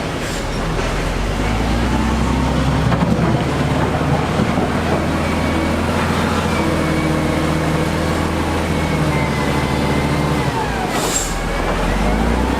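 Diesel engine of heavy construction machinery running steadily, with a short hiss about eleven seconds in.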